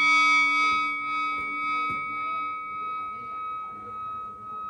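A struck metal bell ringing out with several steady, overlapping tones that slowly die away. One high tone lasts the longest. Another strike comes at the very end.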